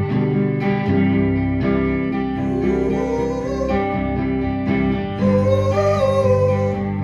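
Live band playing an instrumental passage of a rock song: strummed guitar chords under a lead melody that slides upward twice.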